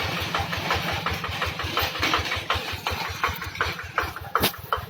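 Modified tractor's engine running at a steady idle, with an even beat of about seven to eight pulses a second. A sharp knock sounds once near the end.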